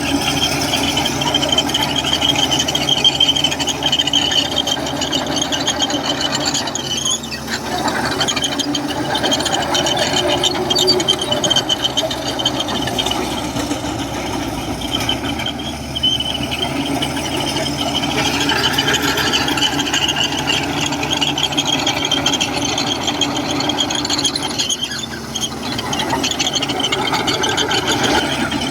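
Komatsu crawler bulldozer working: its diesel engine runs steadily under a constant high squeal and metallic rattle from the steel tracks. The sound dips briefly about a quarter of the way in and again near the end.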